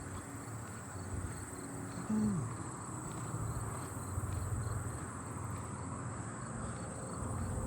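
Crickets singing: a steady high-pitched trill with fainter, evenly repeated chirps beneath it, over a low background rumble. A brief low sliding sound falls in pitch about two seconds in.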